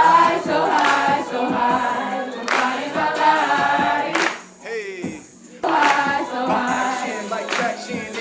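Group of voices singing together with vocal runs, with a short break a little under five seconds in.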